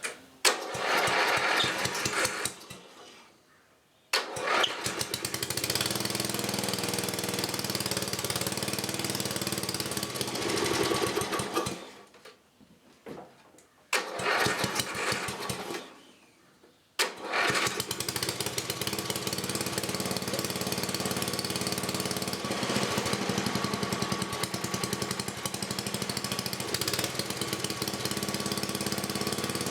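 Freshly rebuilt 1984 10 HP Briggs and Stratton vertical-shaft single-cylinder engine being started: it fires and runs for a couple of seconds and dies, runs again for several seconds and dies, catches briefly once more, then starts a little past halfway through and keeps running steadily.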